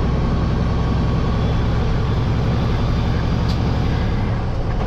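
Truck engine running steadily at low speed, a deep even hum.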